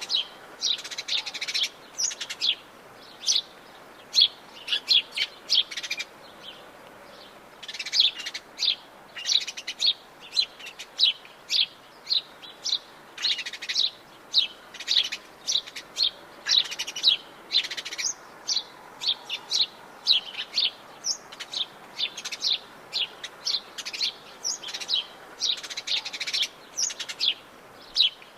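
Several forest birds chirping and calling in short, rapid notes, many overlapping, over a faint steady background hiss.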